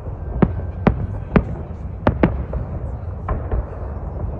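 Aerial fireworks bursting in a salute: a string of sharp bangs, about five in the first two and a half seconds and two fainter ones later, over a steady low rumble.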